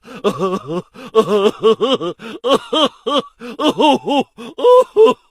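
A person laughing in a quick run of short 'ha' bursts, about four or five a second, with a brief break about a second in.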